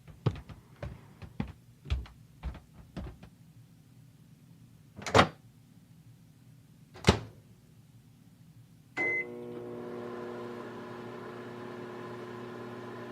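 A run of light clicks, two loud sharp clacks, then a short beep about nine seconds in as a microwave oven starts running with a steady hum, heating a frozen lasagna.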